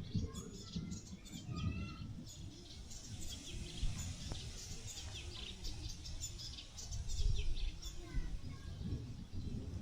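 Small birds chirping and twittering in quick short notes, with a few brief whistled calls. Wind buffets the microphone underneath as an uneven low rumble.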